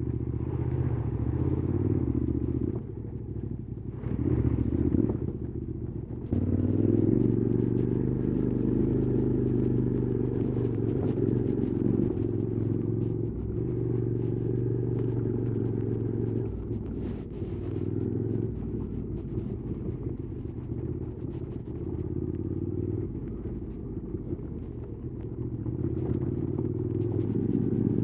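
QJ Motors SVT650X parallel-twin engine running through an Arrow slip-on exhaust while the bike is ridden, with the throttle varying. It eases off briefly about three seconds in, picks up again twice over the next few seconds, holds steady for a long stretch, then builds near the end.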